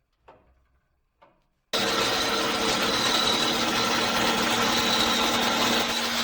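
Two light knocks, then a power tool starts abruptly and runs steadily at full speed, a dense rushing noise with a high steady whine, as the new hammer handle is worked.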